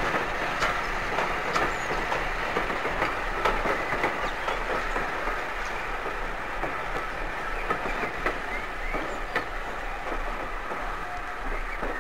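Train of empty coaches hauled by an M7 class 0-4-4T steam tank engine running on the rails, with irregular clicks of wheels over rail joints, gradually fading.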